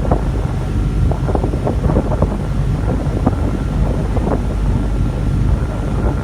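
Wind buffeting the microphone: a loud, low rumble with irregular gusts.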